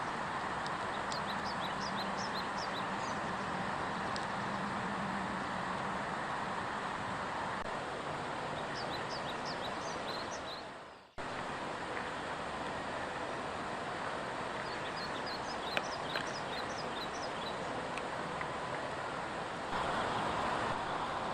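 Woodland ambience: songbirds sing a few short phrases of quick high chirps over a steady rushing background. The sound dips out briefly about halfway through.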